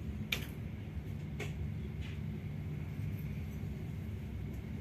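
Steady low rumble inside a passenger train carriage as the train rolls slowly along a station platform, with a few faint clicks in the first two seconds.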